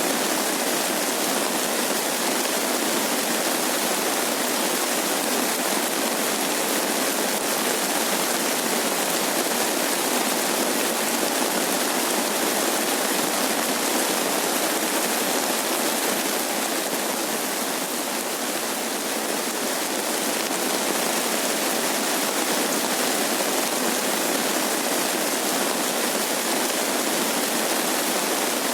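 Steady rain falling, an even hiss of water that eases a little for a couple of seconds past the middle.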